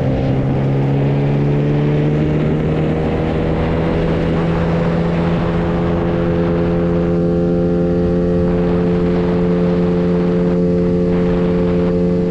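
9.8 hp boat outboard motors running at full throttle in a race. The engine note climbs slowly over the first few seconds and then holds steady at top speed.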